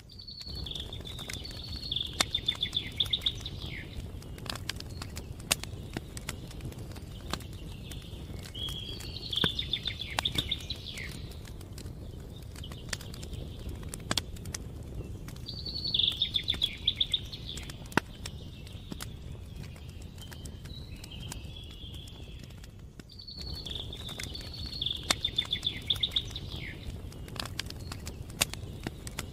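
Wood campfire crackling with frequent sharp pops. A songbird repeats a short trilled phrase about five times, a few seconds apart.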